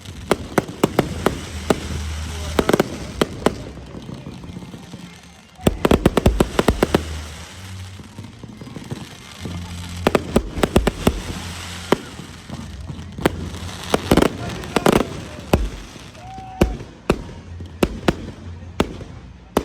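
Fireworks display: a long run of sharp bangs and crackles, bunched into dense flurries about six seconds in, around ten seconds and again around fourteen to fifteen seconds.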